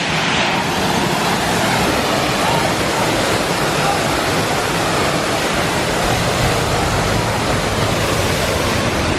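Waterfall rushing: a loud, steady wash of falling water with no break.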